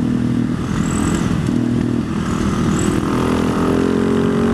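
Husaberg supermoto's single-cylinder engine pulling under load with rushing wind noise. The engine note holds fairly steady, then rises steadily from about three seconds in as the bike accelerates.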